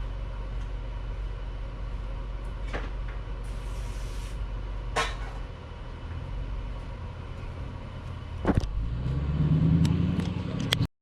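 Motorcycle engine idling through its freshly repacked exhaust silencer, with a few sharp clicks. About nine seconds in it is revved and gets louder, then the sound cuts off suddenly.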